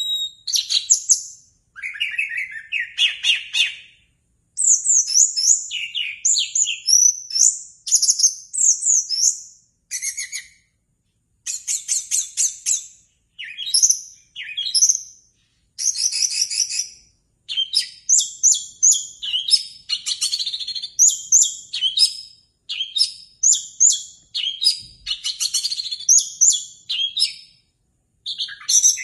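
Orange-headed thrush (anis merah) singing: a long string of quick, varied whistled phrases, one after another with short pauses between them.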